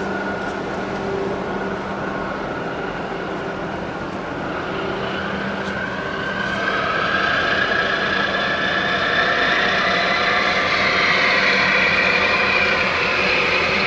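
Steady engine and traffic-like rumble. About four seconds in, a whine begins that rises in pitch and grows louder, then levels off near the end, like an engine speeding up.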